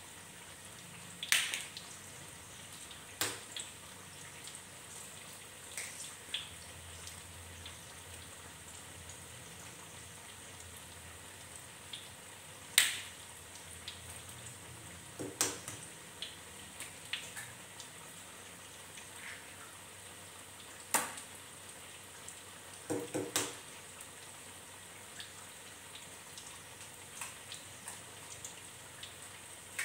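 Corn fritters deep-frying in hot oil in a steel wok: a steady sizzle broken by about ten sharp pops and crackles of spattering oil.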